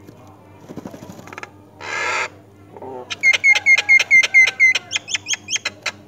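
Myna nestlings begging while being fed at the nest: a fast run of sharp, repeated calls, about five a second, starts about halfway through and is the loudest sound. A short harsh burst of noise comes just before it.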